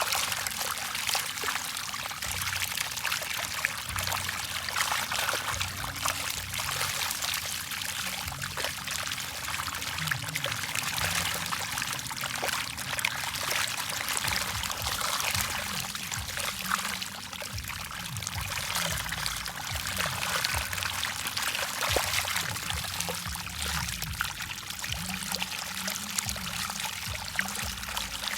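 Steady splashing and pouring water, full of small crackling splashes, as a crowd of fish feed at the surface.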